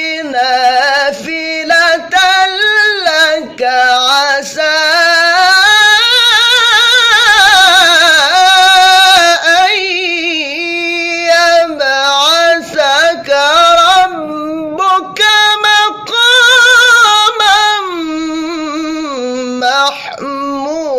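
A male qari chanting Quran recitation in a high, powerful voice, drawing out long held notes with rapid wavering ornaments, broken by short pauses for breath.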